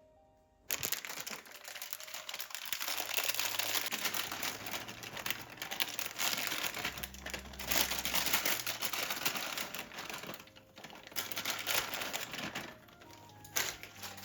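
Packaging being crinkled and rustled by hand in uneven, loud surges that start suddenly about a second in and ease off near the end.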